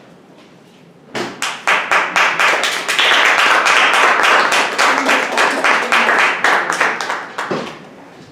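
Audience applauding in a concert hall: a few claps about a second in build quickly into full applause, which dies away near the end.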